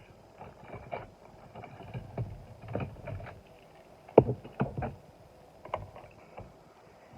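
Handling noise from toy cars being taken out of a carrying case: irregular clicks, knocks and rustles, with the loudest knock about four seconds in.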